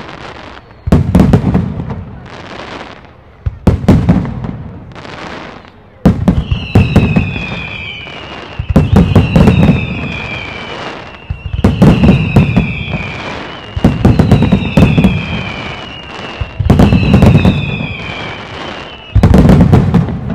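Aerial firework shells bursting in a steady sequence: a heavy boom about every two and a half seconds, each with sharp cracks and a fading rumble. From about six seconds in, each burst also carries a high falling whistle.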